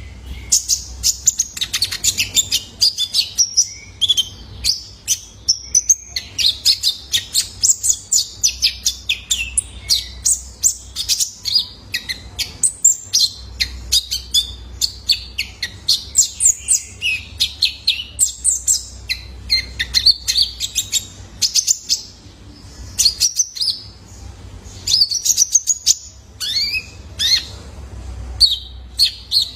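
Young male kolibri ninja (Van Hasselt's sunbird) singing: a continuous rapid twitter of high, sharp chirps and ticks with quick pitch sweeps.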